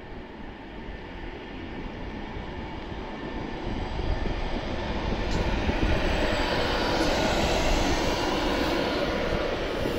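Avanti West Coast passenger train coming along the West Coast Main Line, its noise building steadily over about six seconds and then holding at its loudest.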